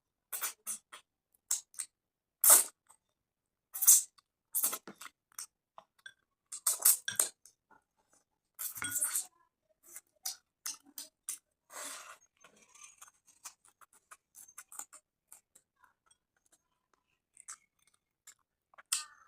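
A person eating close to the microphone: irregular wet smacks, crunches and clicks of chewing mouthfuls of rice and fish curry. The loudest smacks come in the first half, and the chewing is softer toward the end.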